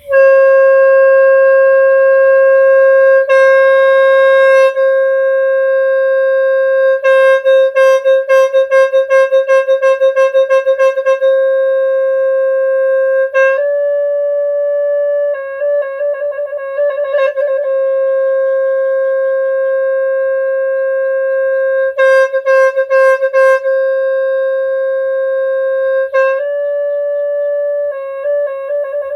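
Snaeng, the Khmer free-reed buffalo-horn, blown in one long sustained note. In places it breaks into fast fluttering pulses, about four a second, and a few times it steps up briefly to a slightly higher note.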